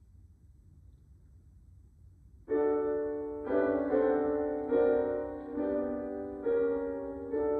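Quiet room tone, then about two and a half seconds in a piano begins playing slow, sustained chords, a new chord struck about every second, introducing the choral piece.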